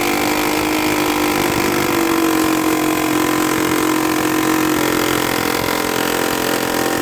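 A power tool's motor running steadily at a loud, even level, with a held pitch that sags slightly, as it works the pulley off the mower's transmission.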